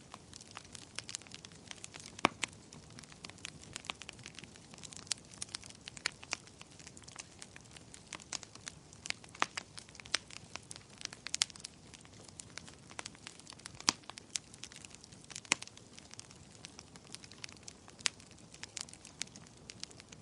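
Wood fire crackling in a fireplace: irregular sharp snaps and pops over a soft low hiss.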